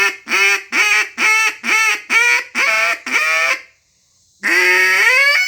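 Duck call blown in a greeting call: a run of short quacking notes, about two a second. After a brief pause comes one long note that climbs in pitch as more air is pushed in, until the call hits its next, higher stage from blowing too hard.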